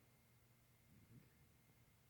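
Near silence: room tone, with one faint, brief low sound about a second in.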